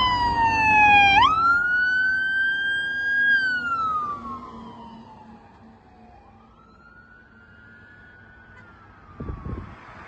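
Fire engine siren wailing, its pitch falling, rising sharply and holding, then falling and rising again, fading after about four seconds as the truck moves away. A short low thump comes near the end.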